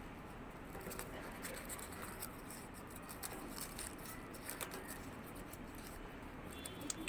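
Paper faintly rustling and crinkling, with scattered small clicks, as folded origami units are handled and pressed together.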